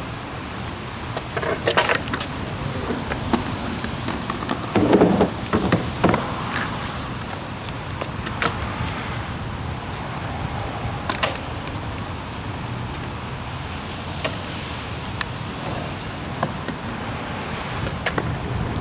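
Skateboard knocks and clacks on wet pavement and a rail slider, a handful of sharp hits spread over the time, against a steady background hiss of rain and passing traffic.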